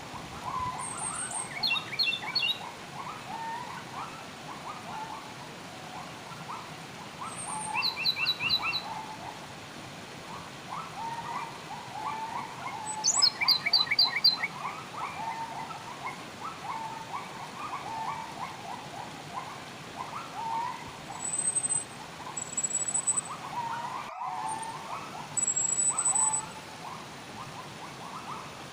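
Many wild birds calling together: a constant chatter of short chirps, with louder rapid trills of repeated notes breaking in a few times and thin high whistles over the top, against a low steady hiss. The sound cuts out for an instant about three-quarters of the way through.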